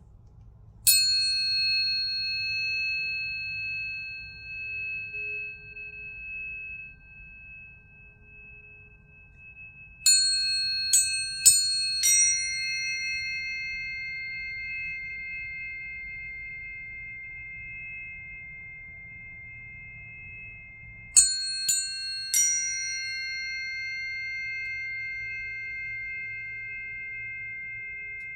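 Planetary tuning forks struck and left to ring in long, pure, slowly fading tones that overlap. One fork sounds about a second in, a quick run of four strikes follows near the middle, and three more come a little later.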